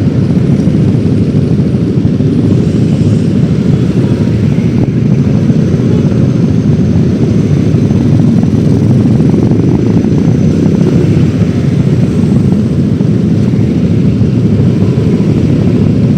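Steady riding noise from a Yamaha X-Ride 113cc single-cylinder scooter under way: wind rushing over the microphone mixed with engine and road noise, with no change in pace.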